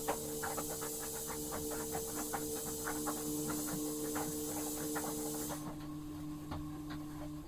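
Hot soldering iron melting into the seam of a plastic washing-machine tub: irregular crackling and hissing over a steady hum, the hiss stopping about two-thirds of the way in.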